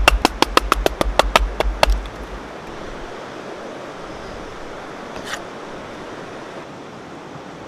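Percussive music with a clicky, wood-block-like beat ends about two seconds in, leaving the steady rush of flowing water from a creek or falls.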